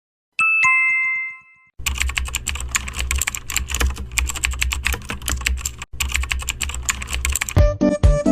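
A falling two-note chime, then rapid computer-keyboard typing that runs for about six seconds with one brief pause. Electronic music starts near the end.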